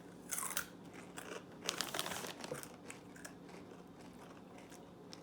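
Doritos Dynamite rolled tortilla chips being bitten and chewed, with crinkling from the chip bag. There is a run of crisp crunches in the first two seconds or so, then quieter chewing.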